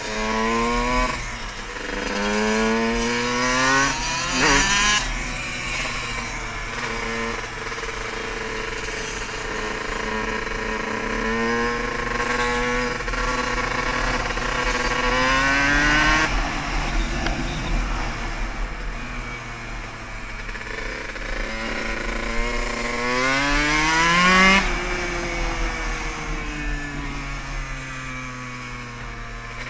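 Dirt bike engine accelerating: its pitch climbs in a few quick runs and drops back at each shift, holds steady between them, then makes one long climb near the end that falls off sharply.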